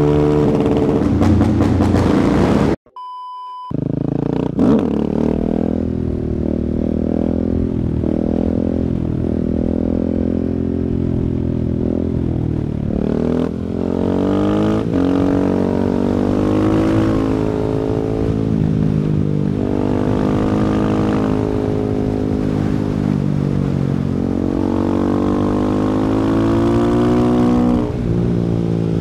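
Husqvarna 701 Supermoto's single-cylinder engine through an Akrapovic exhaust, ridden hard: the pitch climbs and drops again over and over as the bike accelerates and shifts through the gears. About three seconds in, the engine sound cuts out for about a second and a steady beep sounds.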